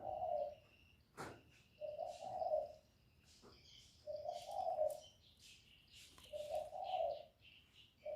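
Spotted dove giving its low 'cu gù' coo, a short phrase repeated about every two seconds, four times. This is the close-range cooing used to lure wild doves. Fainter high chirps of small birds sound above it, and there is one sharp click about a second in.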